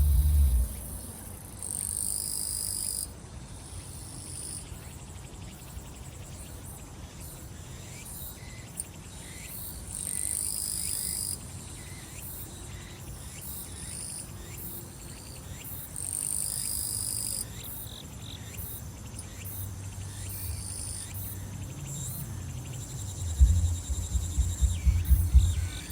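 A chorus of summer grass insects such as crickets chirping steadily, with a louder shrill phrase about a second and a half long that comes back every six seconds or so. Near the end a low thumping bass beat from distant music comes in.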